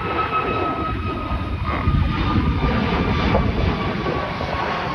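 A passing jet airliner's engines: a steady high whine drifting slowly lower in pitch over a heavy low rumble.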